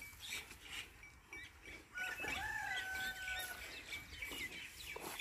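Birds chirping in short repeated notes, with one long, held call from a bird about two seconds in that lasts about a second and a half.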